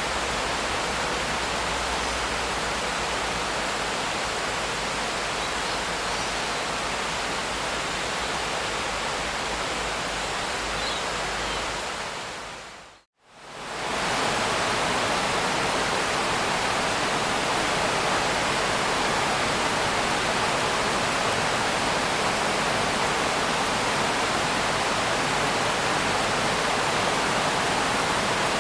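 Steady rain, an even hiss with no separate drops standing out, fading out to silence about thirteen seconds in and straight back up again. A faint low rumble sits under the rain before the fade and is gone after it.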